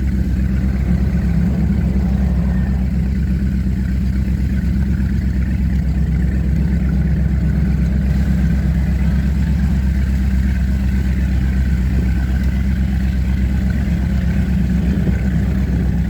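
Four Winns Liberator powerboat's engine running at a steady pitch: a loud, even drone heard from on board, with no revving up or down.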